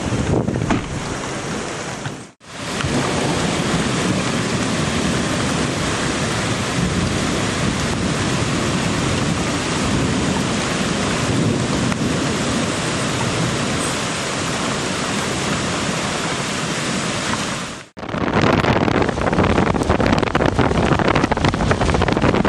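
Steady rush of heavy rain and flowing floodwater. In the last few seconds, gusts of wind buffet the microphone.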